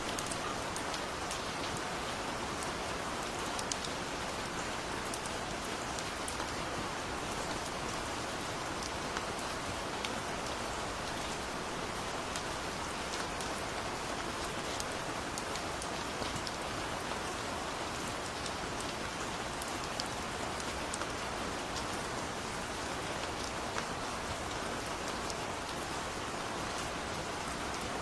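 Steady, even rain falling, with many small drop ticks scattered through it.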